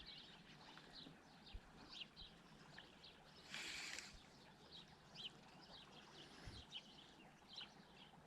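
Faint songbirds chirping, many short scattered calls over a quiet outdoor background, with a brief hiss about three and a half seconds in and a couple of soft low thuds.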